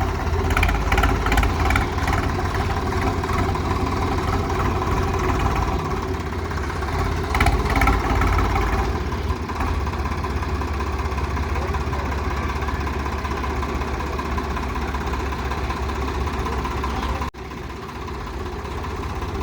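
Tractor diesel engine running steadily, with louder stretches near the start and about seven to eight seconds in. The sound drops out briefly and abruptly about seventeen seconds in.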